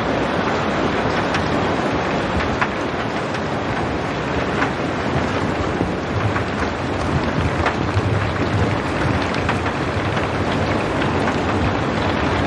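Steady rain: a dense, even hiss with scattered single drops ticking through it, and a low rumble that swells in the middle.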